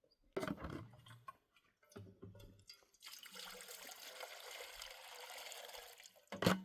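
Water being poured, a steady splash lasting about three seconds, with a few knocks of handling before it and a sharper knock near the end.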